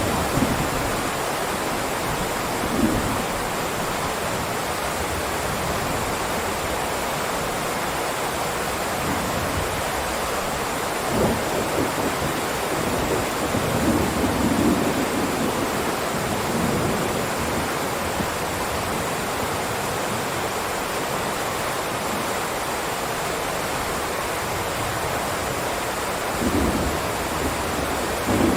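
Heavy rain downpour, a steady dense hiss, with a few brief low swells rising out of it.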